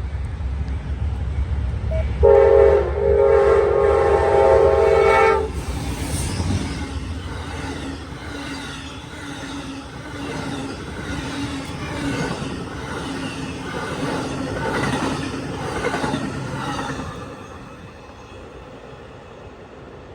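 Amtrak passenger train led by two GE P42DC diesel locomotives passing close by. The lead locomotive's horn sounds one long chord blast of about three seconds, a couple of seconds in. The cars follow with a steady rhythmic clickety-clack of wheels over rail joints, which fades away near the end.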